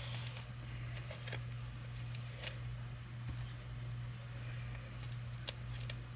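Trading cards being handled and slid against one another: short scattered rustles and light clicks as cards from a freshly opened pack are flipped through, over a steady low hum.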